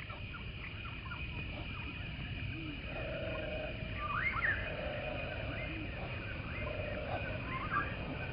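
Birds chirping and calling: many short notes that sweep up and down, some buzzier lower notes among them, over a steady low rumble and a constant high hum.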